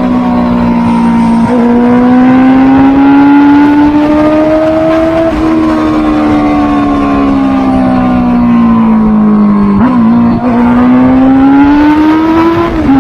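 Honda CB650R's inline-four engine under load, its note climbing slowly for several seconds, easing down from about five seconds in, then climbing again after a brief dip around ten seconds, and dropping sharply near the end.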